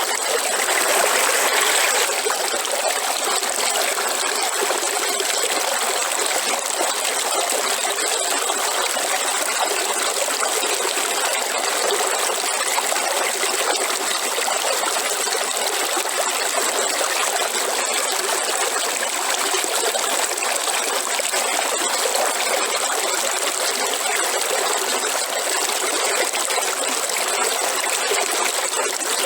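River water flowing steadily, a continuous rush with no breaks, a little louder for the first couple of seconds.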